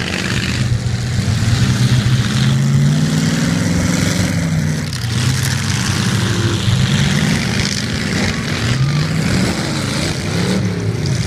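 Demolition derby cars' engines revving, their pitch rising and falling again and again, with more than one engine sounding at once near the end.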